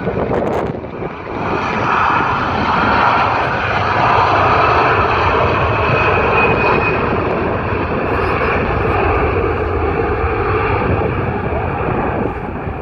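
Jet airliner's engines running loud at takeoff thrust, swelling about a second and a half in, holding steady with a faint whine, then easing off slightly near the end.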